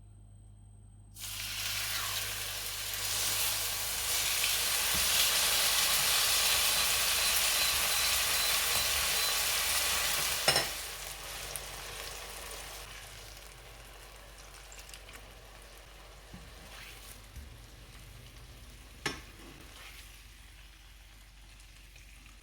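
Food sizzling in a hot frying pan, starting suddenly about a second in. It stays loud for about nine seconds, then a sharp knock and the sizzle drops to a much quieter hiss with a few light clicks.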